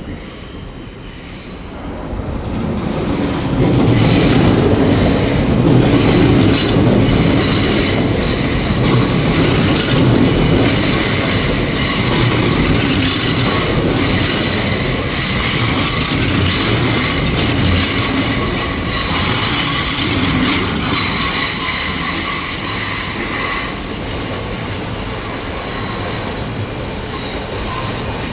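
A five-car Great Western Railway IET (Class 800/802) running into the platform at low speed, its wheels squealing on the track over a steady rumble. The sound builds over the first few seconds and eases off near the end.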